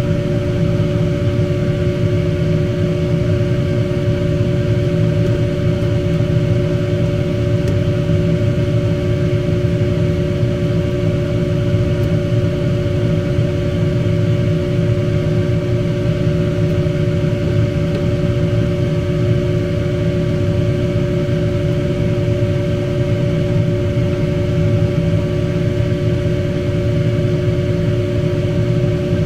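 Steady machine hum: a few constant tones over a low rumble, unchanging throughout.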